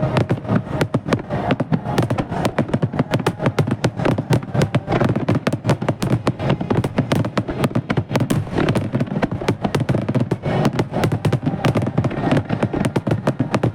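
Dense finale barrage of aerial firework shells bursting, many sharp reports a second in an unbroken volley.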